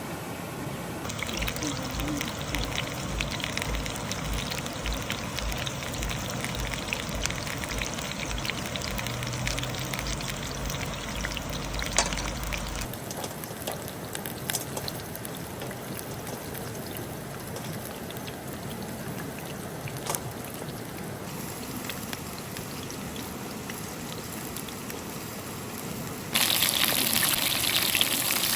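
Water pouring and trickling, with scattered small clicks and knocks. Near the end a louder, steady rushing sound comes in.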